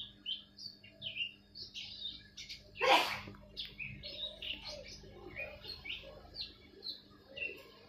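Small birds chirping repeatedly in short high notes, with a brief loud sharp noise about three seconds in.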